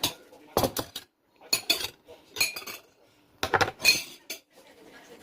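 Metal kitchen utensils and cookware clinking and knocking against pots and dishes, a run of sharp clinks in several quick clusters.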